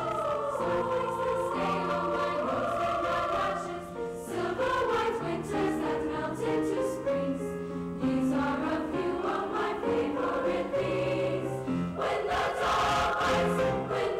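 Junior high school choir singing, the voices moving together through changing notes, with a short break about four seconds in.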